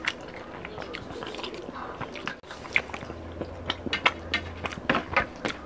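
Close-up eating sounds of people eating rice and fish curry by hand: chewing and mouth smacks, with irregular small clicks and squishes of fingers working food on the plates.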